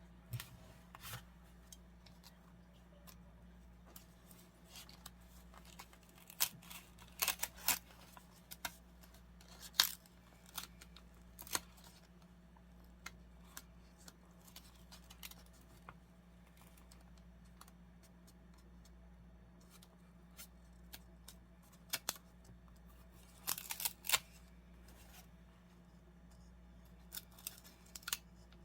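Scissors cutting paper: short clusters of sharp snips with pauses between them, over a faint steady low hum.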